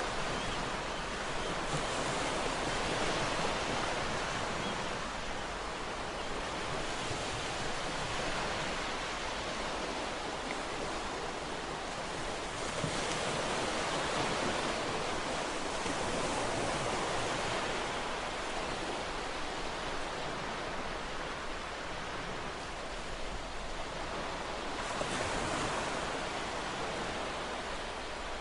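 Ocean waves breaking and washing on a shore, a steady surf that swells and eases every few seconds.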